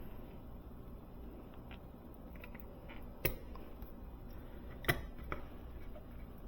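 Hand tools working on thermostat wire: two sharp clicks about a second and a half apart, with a few fainter ticks, over a low steady hum.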